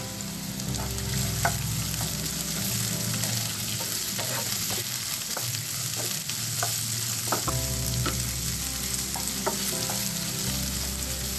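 Chopped carrots and green beans sizzling in hot oil in a nonstick pan, stirred with a wooden spatula that taps and scrapes against the pan now and then.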